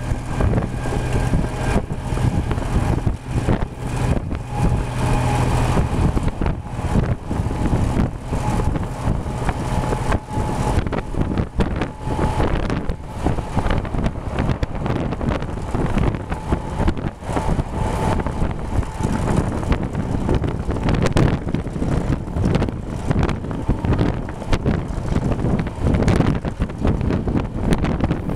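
Running noise of a moving passenger train heard from an open carriage window, a steady rumble with wind buffeting the microphone and a faint steady hum in the first half.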